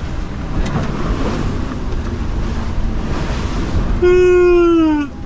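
Wind and rushing sea water around a sailboat under way, with wind buffeting the microphone. About four seconds in, a loud held tone sounds for about a second and drops in pitch as it ends.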